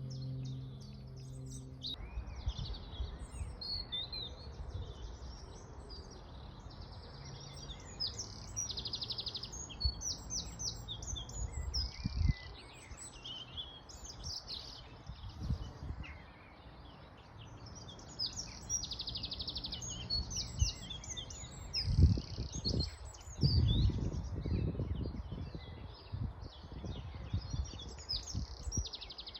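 Several songbirds singing and calling at once: rapid chirps and trills overlapping throughout, over a faint steady background wash. A low hum fades out about two seconds in, and a few heavy low thumps come about three-quarters of the way through.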